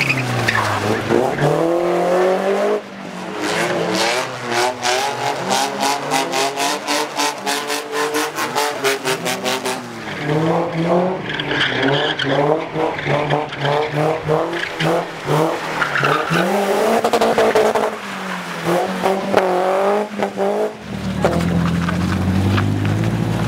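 BMW E36 coupe's engine revving up and down as it drifts, with tyres skidding on the wet surface. A fast pulsing run of several seconds while the revs are held high, and the engine dropping to a low, steady idle near the end.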